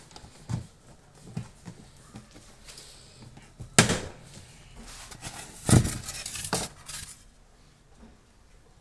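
Clatter of hard objects being handled: scattered light knocks, one sharp loud knock about four seconds in, and a burst of several loud knocks and rattles around six seconds in.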